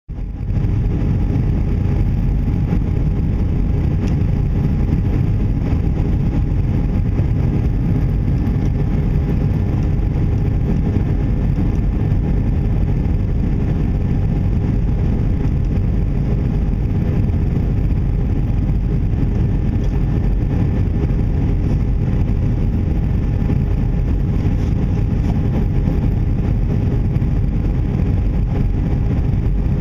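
Cabin noise inside an Airbus A319 in flight: a steady low rumble of airflow and engines with a faint even hum on top, unchanging throughout.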